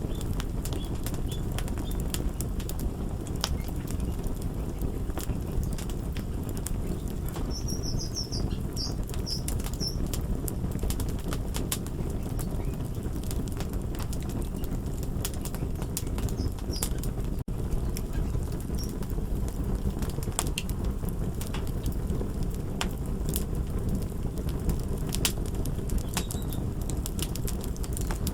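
Crackling fire: a steady low rumble with frequent sharp pops and snaps.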